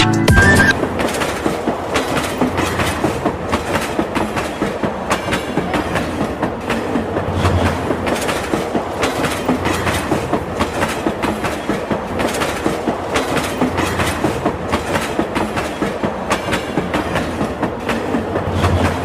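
Train running on rails, its wheels clattering over the rail joints in a quick, uneven run of clicks over a steady rumble.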